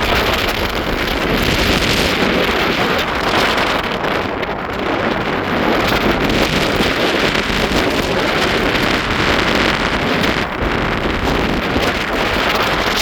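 Strong wind blowing across the microphone: a loud, continuous rush that swells and eases in gusts.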